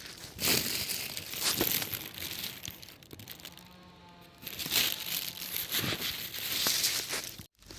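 Rustling, crinkling noise in irregular bursts, with a quieter stretch in the middle; the sound cuts out abruptly near the end.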